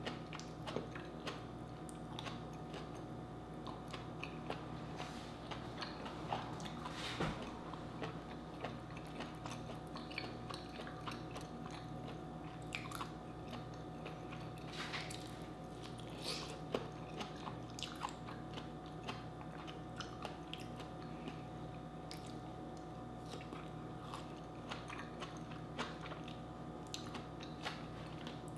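A person chewing and biting into vegetables close to the microphone, with frequent small crunches and clicks throughout.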